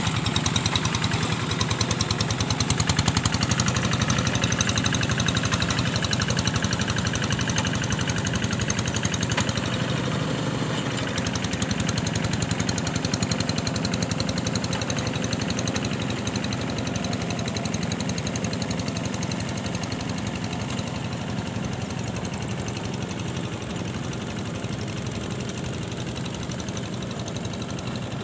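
A small engine running steadily with a fast, even firing beat. It grows slightly fainter over the second half.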